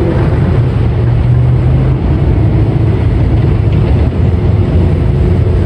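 A car engine running with a loud, steady low rumble.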